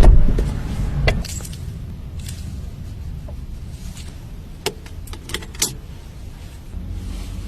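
Car sounds: a heavy thump at the start and a lighter one about a second later, then a steady low rumble with several sharp clicks.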